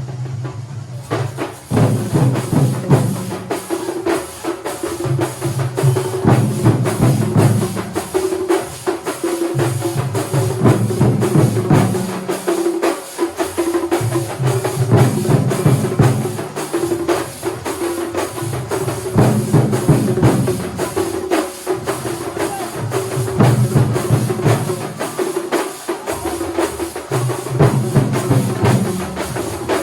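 Thambolam percussion ensemble drumming a fast, dense rhythm with ringing metallic strokes on top, over a steady held tone and a low line of shifting notes.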